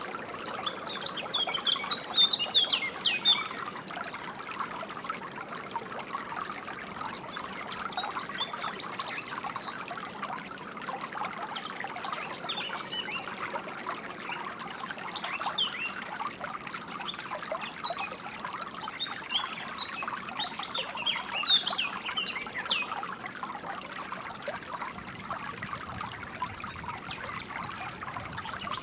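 A small stream trickling and burbling steadily, with songbirds chirping in short bursts over it, the loudest chirps in the first few seconds and again around the middle and two-thirds of the way through.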